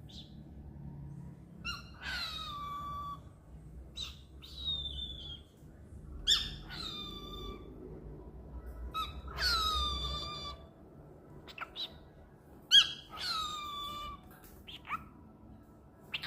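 Cockatiel calling: repeated calls a few seconds apart, each about a second long and sliding down in pitch, with a few short chirps between them.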